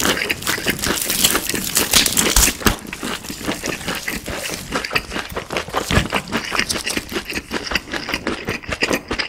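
Close-miked chewing of crispy fried chicken: many quick crunches and crackles of the breading, densest in the first two seconds or so and thinning to lighter crackles after.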